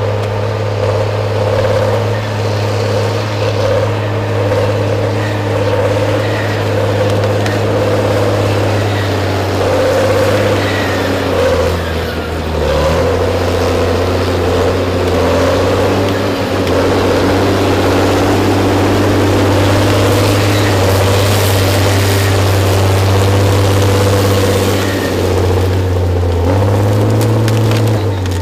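Large diesel engine of a heavy forestry machine running steadily. Its pitch dips briefly about twelve seconds in and steps up again near the end.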